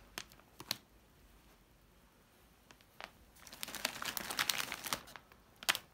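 Plastic packaging of dried dog chews being handled: a few light clicks, then about two seconds of crinkling and rustling starting about three seconds in.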